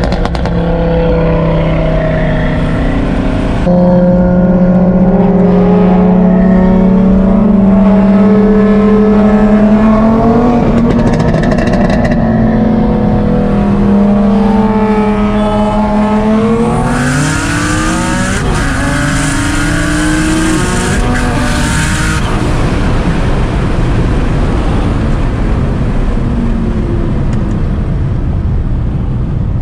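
Single-turbo Nissan 350Z's VQ35HR V6 heard from inside the cabin, running steadily under way with its pitch slowly climbing. About 16 seconds in it revs up sharply into a loud rushing pull for about five seconds, then settles back to a steadier drone.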